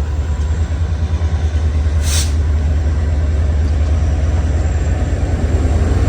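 VIA Rail passenger train pulling out under diesel power, with a deep steady engine rumble. A short burst of hiss comes about two seconds in.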